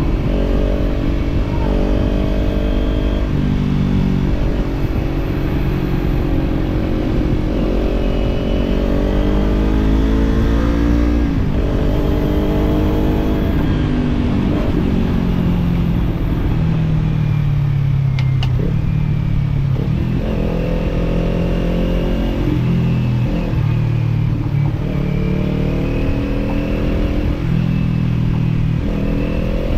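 Kawasaki parallel-twin motorcycle engine with a slip-on exhaust pulling through the gears: the pitch climbs and drops back at each upshift, eases off and runs lower around the middle, then climbs through the gears again. A low wind rumble runs underneath.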